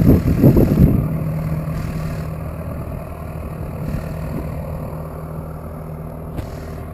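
A heavy machine's engine idling steadily as a low, even hum, with some low rumbling in the first second.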